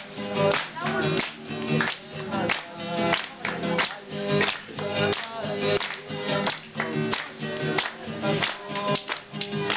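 A group of young people singing together, with hand-clapping keeping a steady beat about twice a second.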